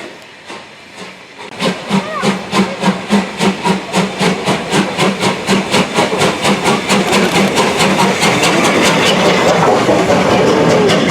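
Steam locomotive working hard past at speed, its exhaust chuffing in an even beat of about five a second. It comes in loud about one and a half seconds in.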